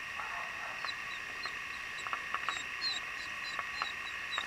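Small birds chirping in quick, short high notes, several a second, starting about a second in, over steady background noise with a few faint clicks.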